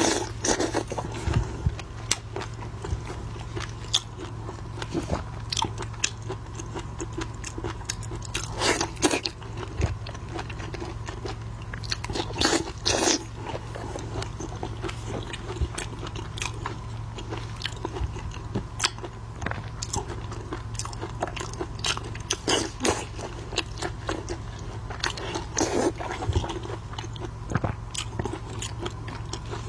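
Close-miked eating sounds of shellfish: repeated biting, crunching and chewing, with sharp cracks and crackles scattered irregularly throughout, over a steady low hum.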